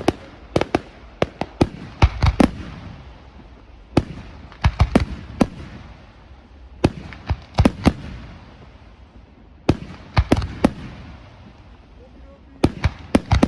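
Aerial fireworks shells bursting in irregular clusters of sharp bangs, several in quick succession and then a pause of a second or two. Each bang is followed by a short low rumble.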